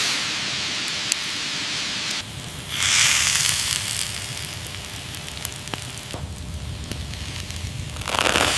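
Open wood fire crackling with a steady hiss, with scattered snaps and two louder surges of hissing, one about three seconds in and one near the end.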